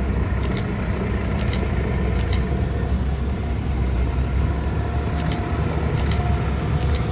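Tractor engines running with a heavy, steady low rumble, with about six short, sharp clicks scattered through it.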